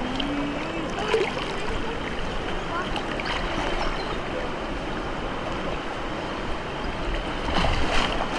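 Steady rush of flowing river water, with faint voices now and then.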